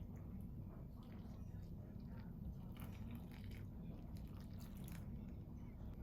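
A person chewing and crunching food, heard as faint scattered small crunches and clicks over a steady low hum.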